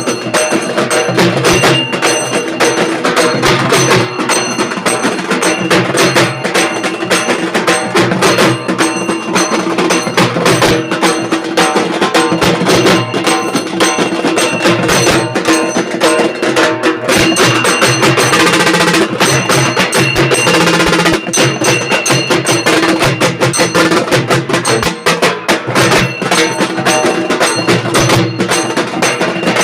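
Halgi frame drums beaten hard with sticks in a fast, dense rhythm, very loud, over a steady held tone.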